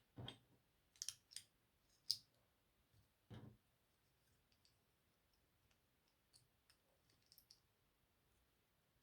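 Plastic LEGO pieces clicking as they are handled and pressed together: a few sharp clicks in the first seconds, the sharpest about two seconds in, a softer knock a little after three seconds, then faint scattered ticks.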